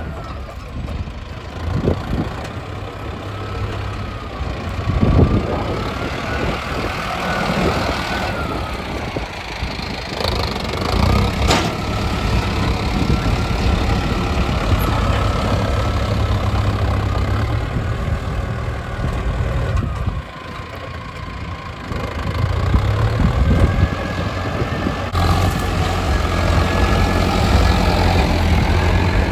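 Mahindra Arjun Novo 605 DI tractor's diesel engine running, its note rising and falling several times as it works, with a short drop in level about two-thirds of the way through.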